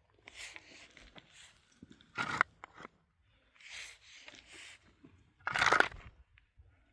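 Irregular crunching and scraping, with two sharper, louder crunches, about two seconds in and again near five and a half seconds.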